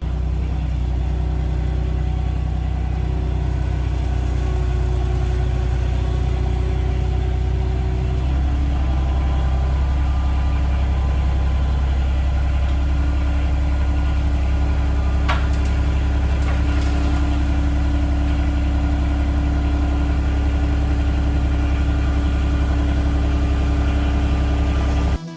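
Skid loader's engine running steadily at low speed while lifting, its pitch settling slightly lower about a third of the way in. A brief sharp click is heard about halfway through.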